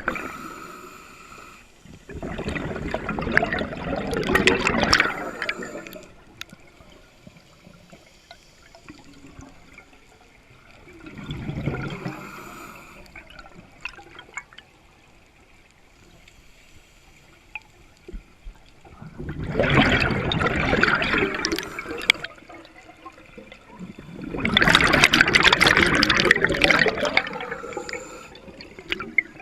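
A scuba diver's exhaled bubbles streaming from the regulator underwater, in rushing, gurgling bursts of a few seconds each. Four bursts come several seconds apart, the third weaker than the rest, following the rhythm of the diver's breathing.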